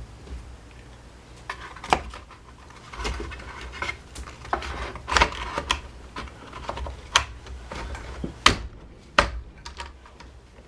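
Irregular clicks, knocks and scrapes of small plastic and metal parts being handled and fitted together while a Honda UMK-422 trimmer is reassembled. The clicks come unevenly, several seconds apart, with a few sharper knocks among them.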